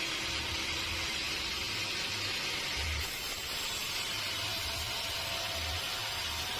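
Sawmill machinery running with a steady, even hiss and an uneven low rumble underneath.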